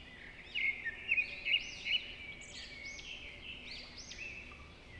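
Small birds chirping and singing: a run of short, curved whistled notes repeating throughout, louder over the first two seconds.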